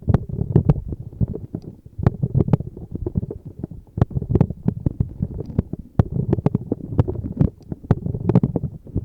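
ASMR tapping: rapid taps in bursts roughly every two seconds, sharp clicks over soft low thuds.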